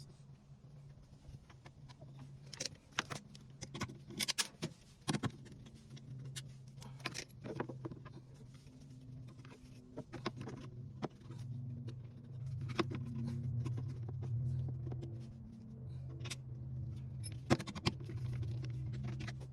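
Scattered clicks, taps and knocks of parts and tools being handled while a washing machine is repaired, some louder strikes among them, over a steady low hum.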